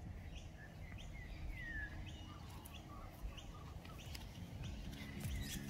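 Small birds chirping repeatedly, short chirps and falling whistles, over a low, even background rumble.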